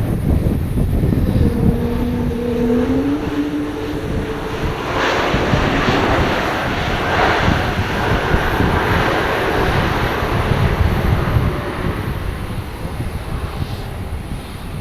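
Airliner engine noise, a steady loud rumble with wind buffeting the microphone. A short pair of rising tones sounds about two seconds in.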